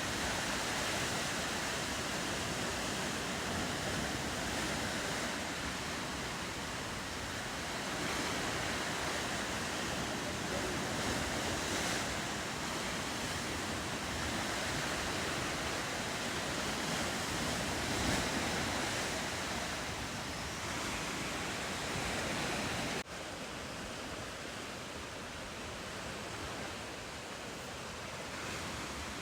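Ocean surf washing steadily against the shore, with some wind. About three-quarters of the way through the sound drops suddenly and stays a little quieter.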